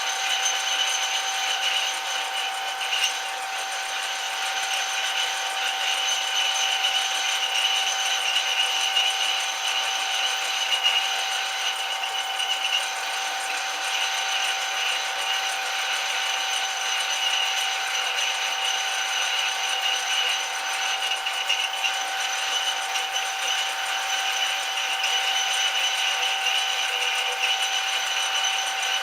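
Metal lathe running steadily, a constant machine whine made of several fixed tones.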